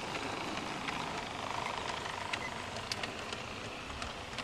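Aristo-Craft large-scale model train of six RS-3 locomotives and 61 cars running past on its track: a steady rolling noise with scattered light clicks.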